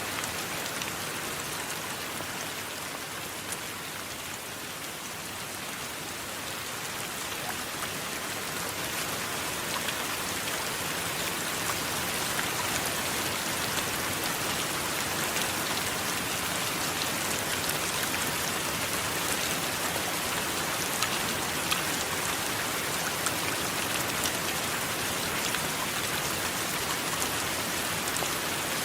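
Steady heavy rain, a dense hiss with individual drops ticking through it. It eases slightly a few seconds in, then builds back up louder.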